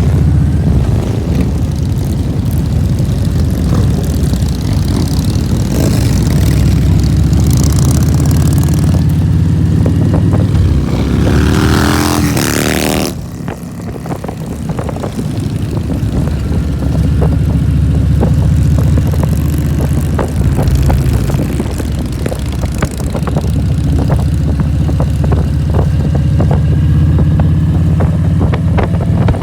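Motorcycle engine running steadily while riding. About eleven seconds in, a rising rev builds to a loud peak and cuts off suddenly, then the steady running resumes.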